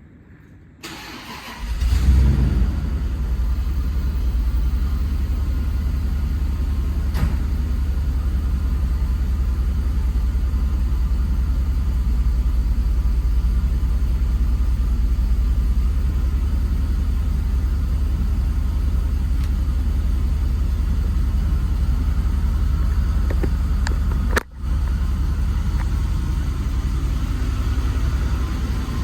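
Cold start of a 1995 Bentley Continental R's turbocharged 6.75-litre V8: the starter cranks for under a second, the engine catches about two seconds in, and then it settles into a steady, deep idle. The sound cuts out for a moment about 24 seconds in.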